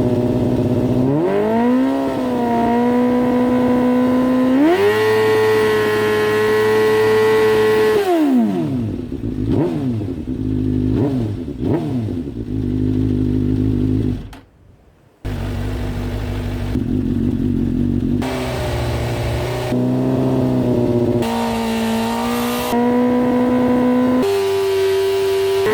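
Suzuki GSX-R 600 inline-four engine revved through its exhaust: it climbs and holds at steady rpm, drops back, and takes several quick throttle blips. The sound breaks off briefly about halfway through, then more held revs follow.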